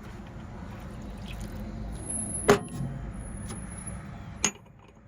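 Metal parts of a wire stripper clinking as they are handled and fitted together: one sharp clank with a bright ring about two and a half seconds in and a lighter click near the end, over a low steady hum that stops near the end.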